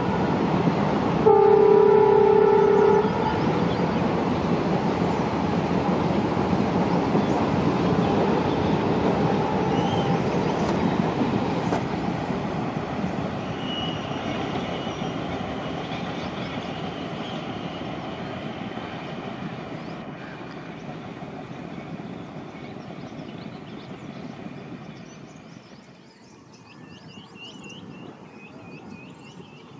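Indian Railways diesel locomotive sounds its horn once, a blast of about a second and a half just after the start, over the rumble of the train running on the track. The rumble fades away steadily over the next twenty seconds, and birds chirp near the end.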